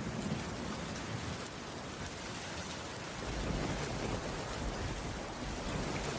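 Steady rainfall, an even hiss of drops, with a low rumble of distant thunder that fades early on and swells again a little past halfway.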